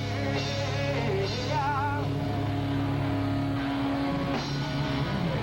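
Live rock band playing an instrumental passage, led by electric guitar with bent, wavering notes over a steady, dense backing.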